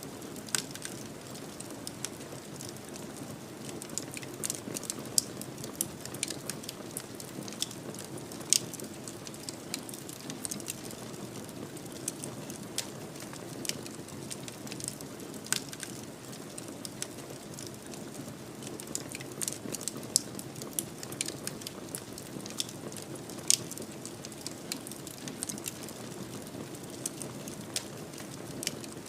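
Wood fire burning in a fireplace: a steady low rushing of flame with frequent irregular crackles and pops, a few of them sharp and loud.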